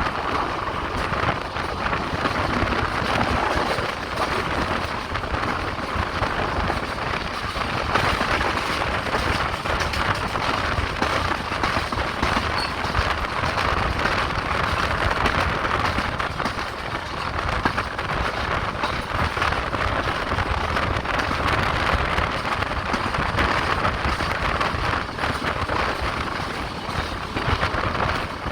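Passenger express train running along the track, heard from on board as a steady rumble and rattle.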